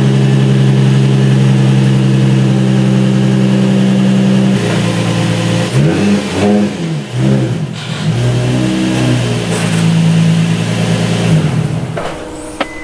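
Nissan 350Z's 3.5-litre V6 running at a steady idle, then revving up and down for a few seconds, then settling back to a steady idle and dropping in level near the end. The revving is the car being driven up onto wooden blocks so that a lowered car can be jacked up.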